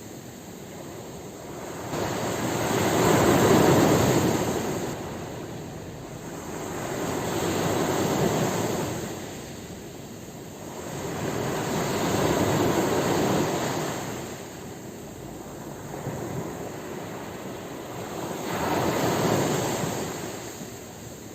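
Ocean waves breaking and washing on the shore, the surf swelling and ebbing in about four slow surges, one every four to five seconds.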